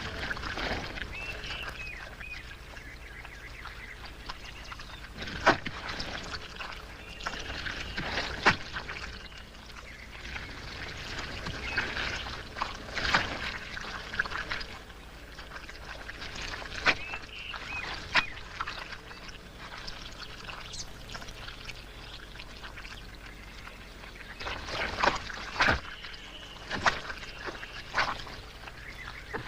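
Thick wet mud sucking and splashing in irregular bursts as a wildebeest stuck fast in a drying swamp struggles to free itself, the sharpest splashes about five and a half, eight and a half and thirteen seconds in and a cluster near the end.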